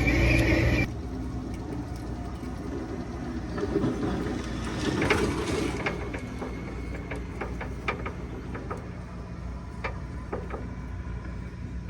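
Thread tap being worked by hand through a dirt-clogged bolt hole in a car's underbody: scattered sharp metal clicks and short scrapes over a steady low hum. The clicks are irregular, and a louder sound fills the first second.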